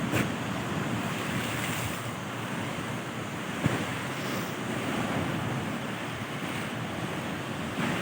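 Sea waves washing onto a beach, with wind on the microphone.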